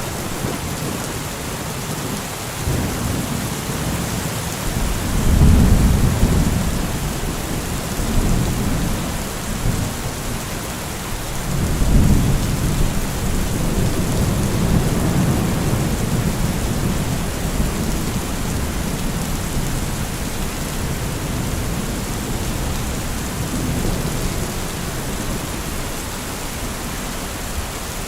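Thunderstorm: steady heavy rain hissing, with rolling thunder rumbles swelling about five seconds in and again about twelve seconds in, the second roll lasting several seconds.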